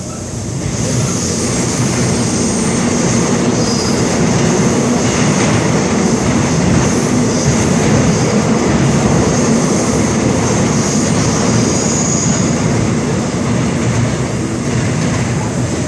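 Seoul Subway Line 7 train running on the rails, heard from inside a car: a loud, steady rumble of wheels and running gear with a high wheel squeal. It grows louder about a second in.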